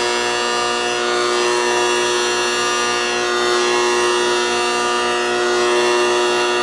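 Trane XL14i air-conditioning condensing unit giving off a loud, steady electrical buzz with many overtones. This is the nasty noise that the technician puts down to a failed condenser fan motor.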